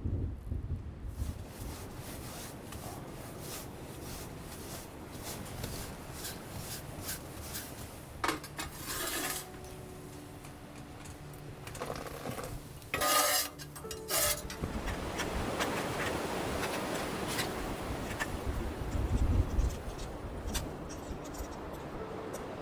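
Scraping and rubbing with many small clinks of utensils against cookware, with two louder clattering bursts partway through.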